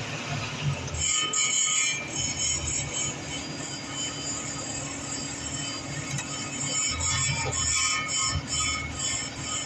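Metallic buzzing, squealing rattle from a Mercury Grand Marquis's exhaust muffler while the car is driven, over a low engine and road rumble; the metallic tones come in about a second in and come and go. It is the sign of loose sheet-metal plates in the muffler: harmless, not the suspension the customer suspected.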